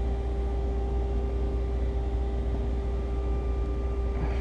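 Steady mechanical hum: a constant low rumble with a held mid-pitched tone over it.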